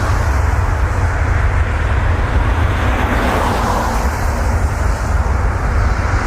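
Jet airliner passing on landing, a loud steady rush of engine and air noise, with heavy wind rumble on the microphone underneath.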